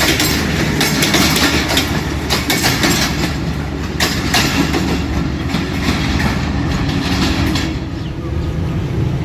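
Passenger train rolling past at speed, its wheels clacking over rail joints in quick, irregular strokes over a steady rumble.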